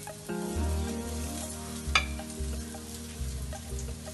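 Potato patties (aloo tikki) sizzling as they fry in oil in a pan, a steady hiss, with a single sharp click about two seconds in.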